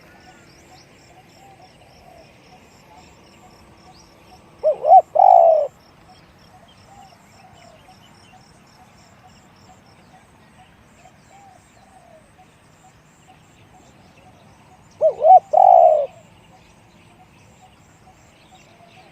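Spotted dove calling twice, about ten seconds apart: each call is two short notes followed by a longer, louder coo. Fainter dove calls sound in the background.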